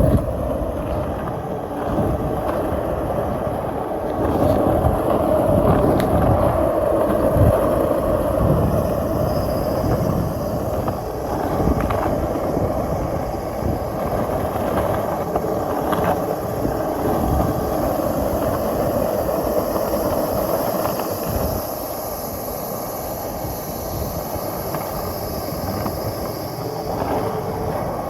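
Skateboard wheels rolling steadily over pavement: a continuous rumble with small clicks and knocks from cracks and joints in the surface.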